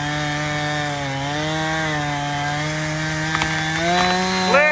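Two-stroke chainsaw running at high revs through wood, its pitch sagging slightly under load. Near the end it revs up as it frees itself, then drops off.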